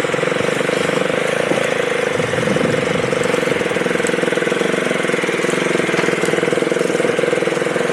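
Dirt bike engine running steadily at low revs, near idle.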